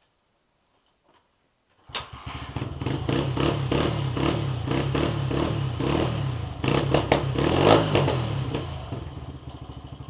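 A 2001 Honda XR80R dirt bike's small four-stroke single-cylinder engine starts cold about two seconds in and catches at once. It runs with a few revs in the middle, then settles to a lower, steadier idle near the end.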